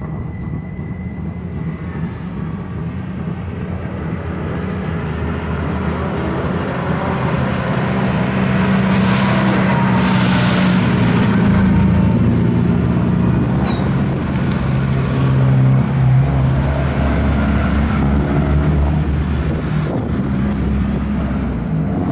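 Hillclimb race car engine at full throttle, growing louder as it approaches and passes close by, with its note stepping in pitch through gear changes.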